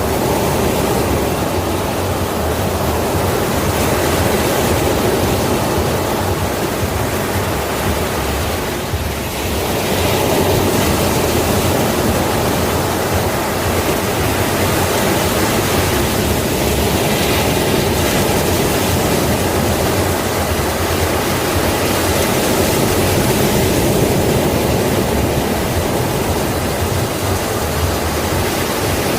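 Sea waves breaking and washing on a shore in a continuous rush of surf, swelling and easing slowly, with a brief lull about nine seconds in.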